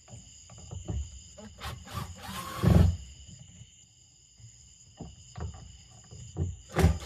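Scattered clicks, knocks and scrapes of a hand tool working at the stripped screws of a boat fuel tank's sending unit, with a louder rasping noise about two and a half seconds in and another near the end, over a faint steady high hum.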